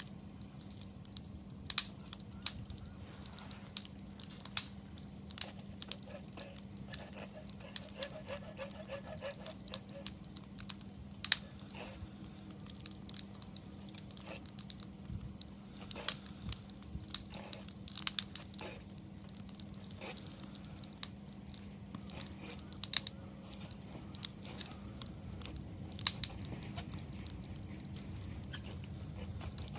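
Wood campfire crackling: an irregular run of small ticks and snaps, with a louder sharp pop every few seconds.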